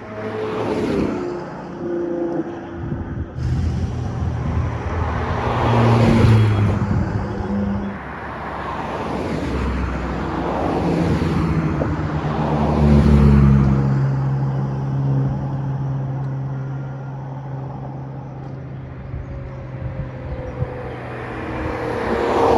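Ferrari sports cars driving past one after another, each engine swelling as it goes by, the loudest passes about six and thirteen seconds in. A steadier low engine tone runs through the second half.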